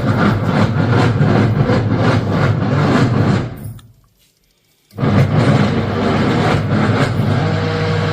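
LG washing machine running with a loud mechanical noise, which the repairman traces to its gearbox. The noise fades out about three and a half seconds in and starts again about a second later.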